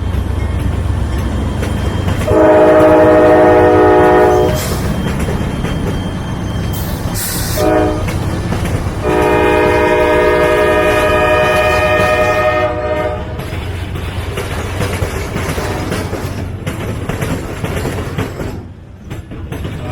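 Freight locomotive air horn sounding three blasts, long, short, then long, over the steady rumble of the passing train.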